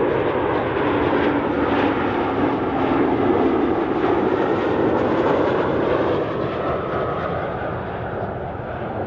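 Jet airliner passing close by: a loud, steady rush of engine noise that slowly fades over the last few seconds.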